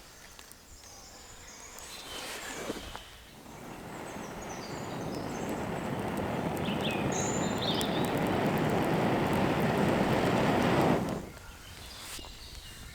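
A person blowing steadily into a smouldering tinder bundle to coax a caught spark into flame. One short blow comes first, then one long blow that grows louder for several seconds and stops abruptly near the end. Birds chirp faintly.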